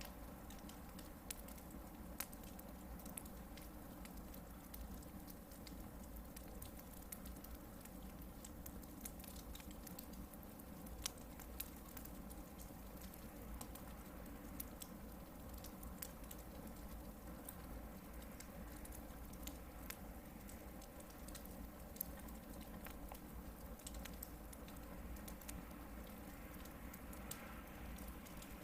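Hardwood-log campfire burning quietly, with a steady soft crackle and a few sharper pops from the wood.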